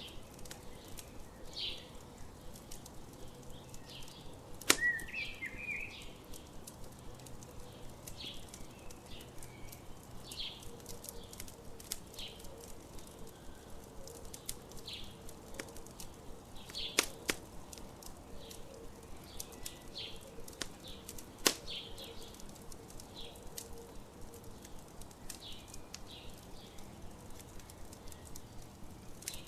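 Campfire crackling with irregular snaps and a few louder pops, while birds call briefly and intermittently in the background.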